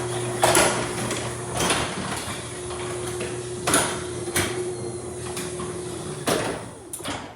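LiftMaster side-mount jackshaft opener running steadily as it raises a wood sectional garage door, a low hum with scattered clunks from the door and rollers moving along the track. The motor stops about six seconds in, followed by a couple of knocks.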